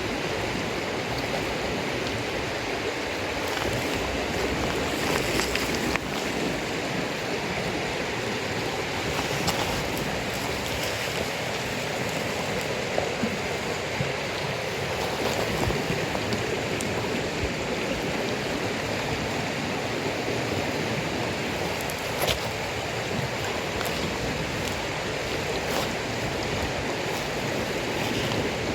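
A campfire of damp firewood burning, with a few sharp crackles and pops over a steady rushing noise like running water.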